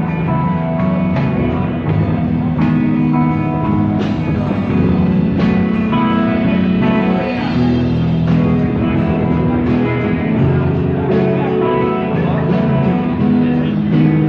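Live rock band playing, pretty loud: guitar and bass notes over a steady drum beat.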